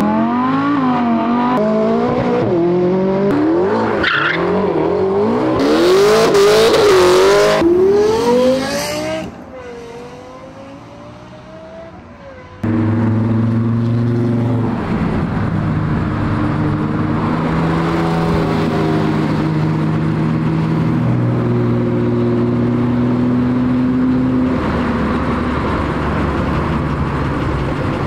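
Cars revving hard and accelerating past, the engine pitch climbing and dropping again and again through the gears, loudest about six seconds in. After a quieter stretch the sound cuts off abruptly before halfway into a steady low drone of held tones that shift in pitch every few seconds.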